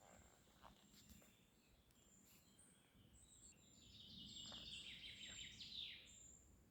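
Faint bird song: high, thin whistled notes, then a rapid trill that grows louder about four seconds in and ends with a falling sweep, with a few faint clicks.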